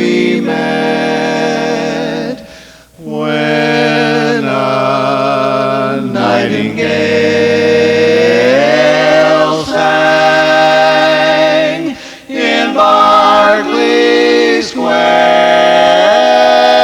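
Barbershop quartet of four male voices singing a cappella in close four-part harmony, moving through sustained chords with brief breaks for breath about 3 and 12 seconds in, then holding a long final chord near the end.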